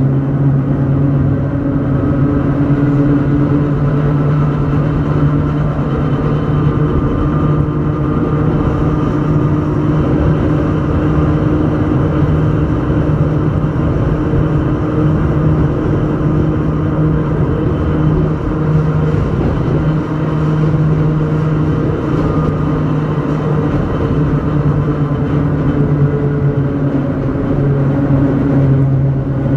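Hakone Tozan Railway Moha 1-type electric car Moha 103 under way: a steady low drone from the traction motors and gearing over the rumble of wheels on rail.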